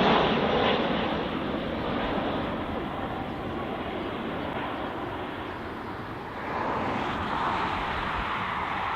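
Airbus A320's IAE V2500 jet engines going away after a low landing pass: a broad rushing roar that fades over several seconds, then swells again about six and a half seconds in.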